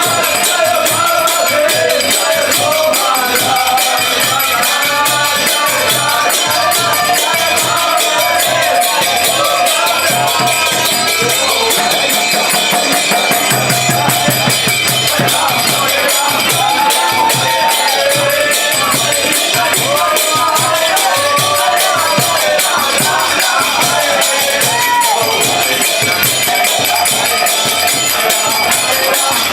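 Kirtan music: voices singing a chant over a fast, steady jingling hand-percussion beat.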